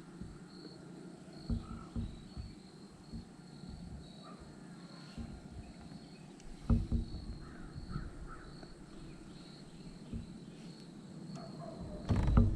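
Quiet outdoor ambience with a short, high chirp repeating about twice a second, and a few soft low knocks.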